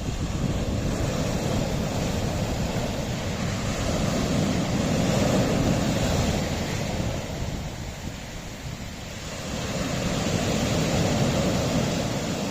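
Sea waves breaking and washing against a rocky shore, swelling twice, a wave about every six seconds.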